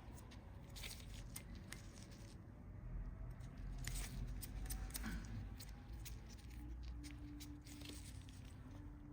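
Scattered small clicks and snips of pedicure nail tools cutting and working at a toenail, over a low background rumble.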